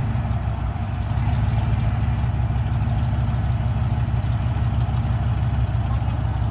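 A vehicle's engine idling steadily while stopped, a low rumble heard from inside the cabin.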